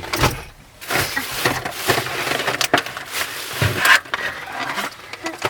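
Close-up eating noises: crunching and chewing with crackly rustling and clicks as food is handled.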